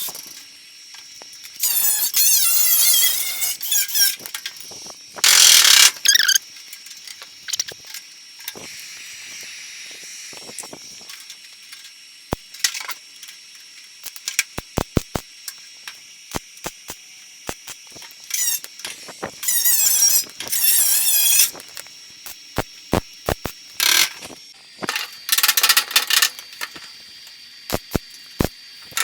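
Welder tack-welding a sheet-metal patch into a car fender: several short bursts of a high, squealing arc, each a second or two long, with scattered sharp clicks between them.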